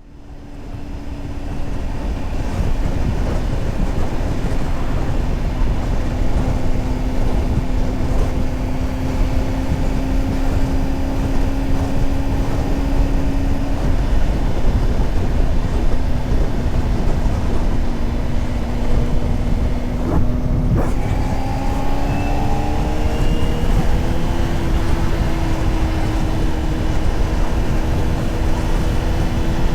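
Honda CBR600RR inline-four sport bike engine running under way, heard with heavy wind rush over the microphone. The sound fades in over the first couple of seconds. The engine note holds steady and sags slightly, then rises over a few seconds about two-thirds of the way through as the throttle opens, and holds at the higher pitch.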